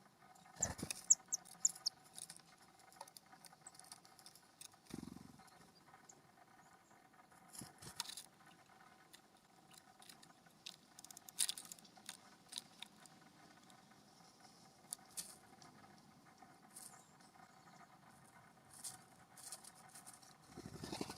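Birds at a ground feeder: scattered light taps and scratches, with a few short high chirps about a second in and a soft thump or two, over a faint steady hum.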